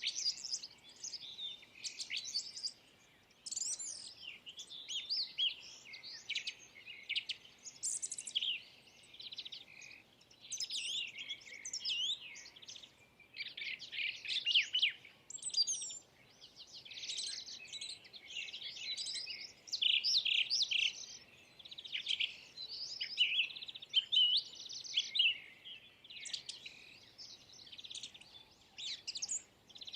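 Small songbirds chirping and twittering, with many short, high calls overlapping almost without a break.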